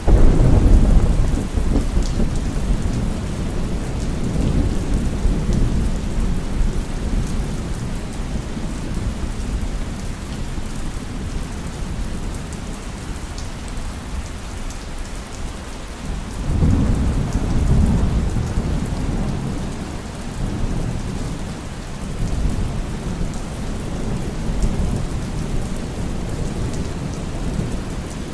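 Steady heavy rain with rolling thunder. A loud low rumble starts right away and fades over several seconds, and a second rumble swells about two-thirds of the way through.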